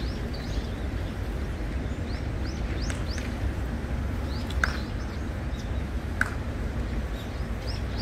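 Small birds chirping in short, quick falling notes over a steady low outdoor rumble, with two sharp clicks about four and a half and six seconds in.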